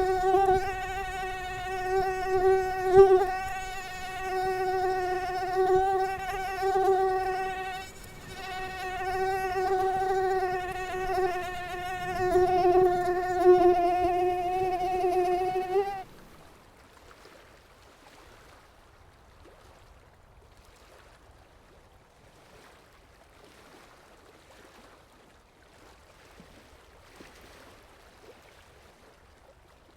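Mosquito whining close to the microphone: a steady high hum that wavers slightly in pitch, drops out briefly about eight seconds in, then cuts off abruptly a little past halfway, leaving only a faint background hiss.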